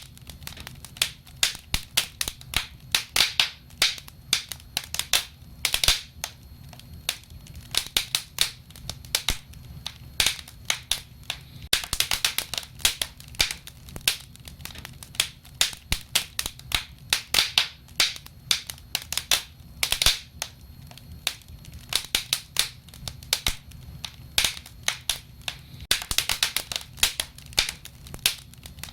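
Wood fire burning, with irregular crackles and pops several times a second over a low steady rumble of the flames.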